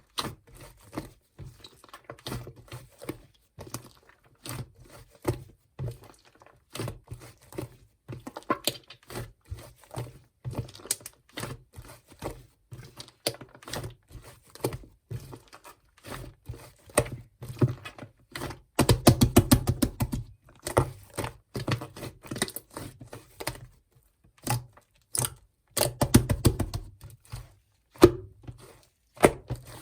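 Clay slime being squeezed, stretched and poked by hand: a steady run of sticky pops and clicks, with two spells of rapid crackling, about nineteen and twenty-six seconds in.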